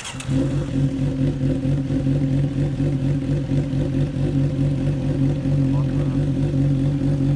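2008 Honda CBR600RR's inline-four engine idling steadily through a straight pipe, with its Yoshimura exhaust taken off. It has already been somewhat warmed up.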